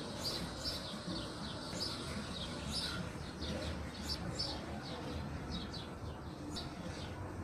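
Birds chirping: short, high, falling calls, repeated one or two times a second, over a steady low background rumble.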